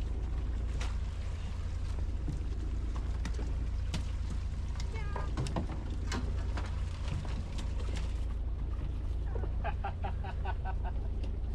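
Fishing boat ambience in heavy rain: a steady low rumble with many scattered sharp ticks of rain, and near the end a quick run of short high notes.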